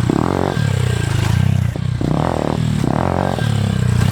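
Pit bike engine revving up and dropping back again and again as the rider works the throttle, with about four surges in a few seconds.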